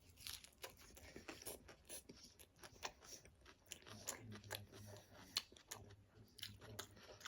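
A person faintly crunching and chewing a mouthful of Caesar salad, a dense run of small crisp crunches, with a low hum from about four seconds in.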